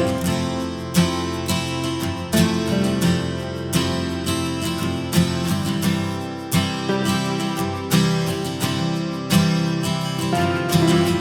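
Music: strummed acoustic guitar playing chords in an even rhythm, a strum about every second and a half.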